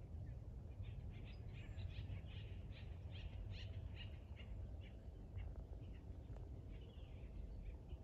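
Birds calling in a series of short, quick chattering notes, thickest in the first half, over a low steady rumble.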